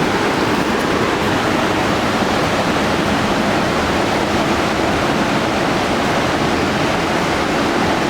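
Loud, steady rush of river water pouring over boulders, an even, unbroken roar.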